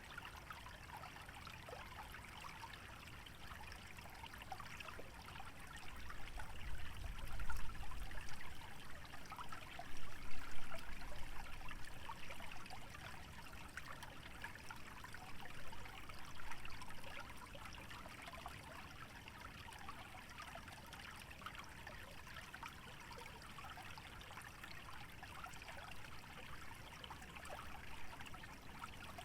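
Small wetland stream trickling steadily over its bed. A low rumble swells in from about six seconds in, loudest around seven and ten seconds, and fades out by about seventeen seconds.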